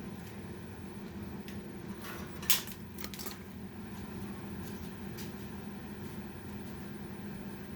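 Steady fan-like hum, with a short run of clicks and one sharp knock about two and a half seconds in as a light is handled and adjusted.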